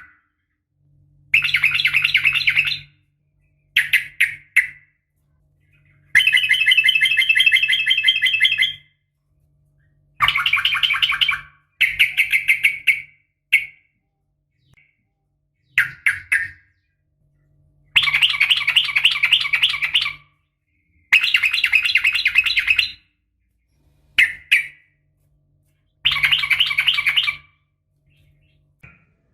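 Yellow-vented bulbul (trucukan) singing long rapid-fire phrases of quick, bubbling notes. It comes as about ten separate bursts, each half a second to two and a half seconds long, with short pauses between them and a faint low hum under each burst.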